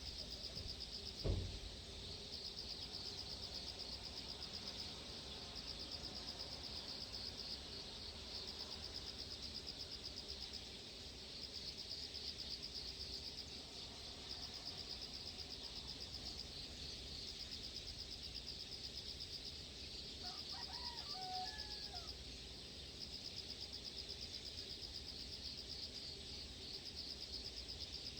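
Insects trilling in a steady, high, fast-pulsing chorus over a low rumble. A bird gives a brief call of a few quick notes about two-thirds of the way through, and there is a single dull bump about a second in.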